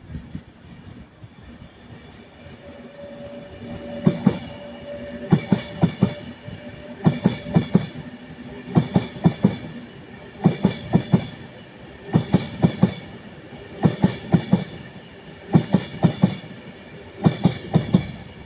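Train passing slowly, its wheels clicking over rail joints in groups of three or four roughly every 1.7 seconds. A faint steady hum runs under the first half.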